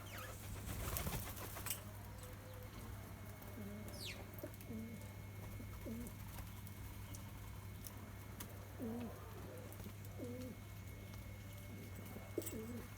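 Doves cooing in repeated low calls. A brief loud rustle comes about a second in, and a thin falling whistle from another bird around four seconds in.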